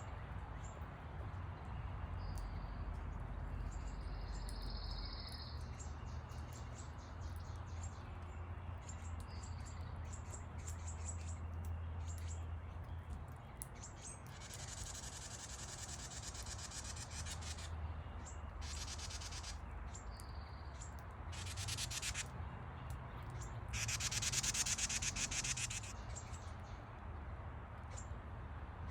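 Birds calling at a backyard feeder: a few short high whistled chirps, then several buzzy rapid trills lasting a second or two each, over a steady low hum.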